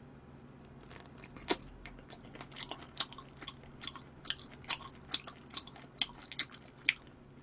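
Someone chewing spicy chicken feet close to the microphone: soft, irregular clicks and crunches of gnawing on the skin and cartilage, a couple a second.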